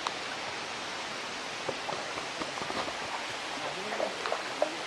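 Steady rush of a small forest stream, with twigs and leaf litter snapping and crackling underfoot in scattered clicks through the second half.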